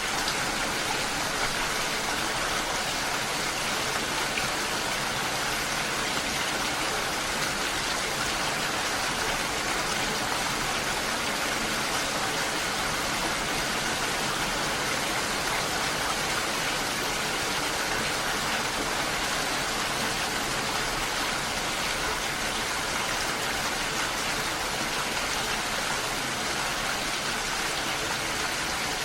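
Steady, even rush of water noise, unchanging throughout.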